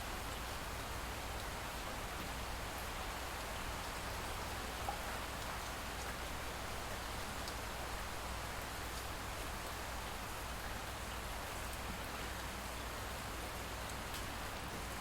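Light rain falling steadily, with faint drops ticking here and there.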